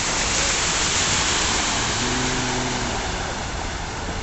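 Heavy rain pouring down in a steady, loud hiss that eases slightly toward the end.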